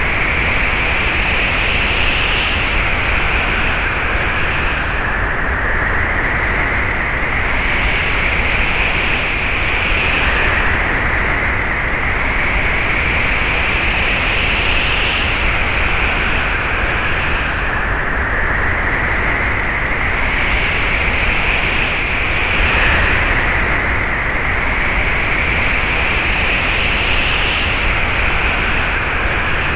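Wind sound effect: a steady, loud rush of wind with a whistling howl that climbs slowly in pitch and then drops back suddenly, about every five seconds.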